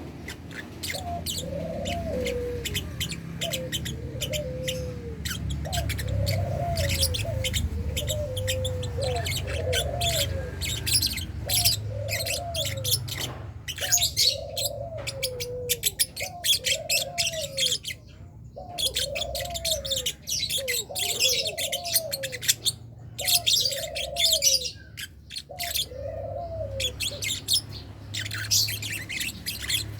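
Lovebirds in a colony cage chirping rapidly, a dense stream of short, shrill chirps. Underneath, a lower cooing call rises and falls about once a second, falling away in the last few seconds.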